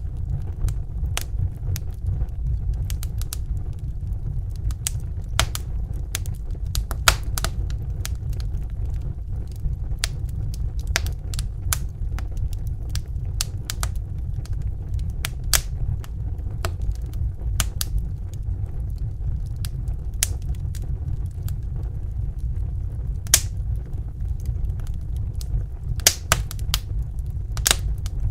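Wood fire crackling, with irregular sharp pops and snaps over a steady low rumble of burning logs; a few pops stand out louder.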